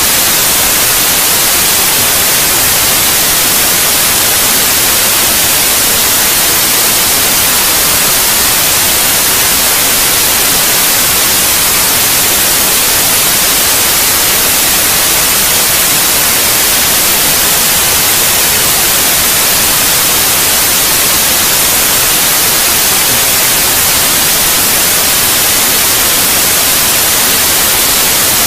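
Steady white noise for lulling a baby to sleep: an even, unbroken hiss, strongest in the treble, that never changes.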